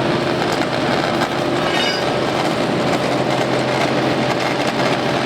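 Steady drone of a running engine, with a constant low hum under an even rushing noise.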